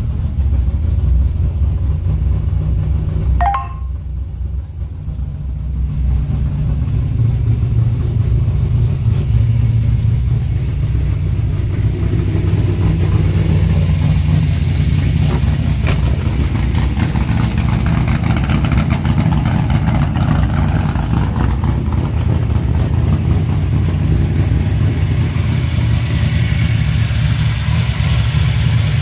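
Truck engine running steadily. About four seconds in there is a brief high squeak, and the engine sound drops for a couple of seconds before building back up.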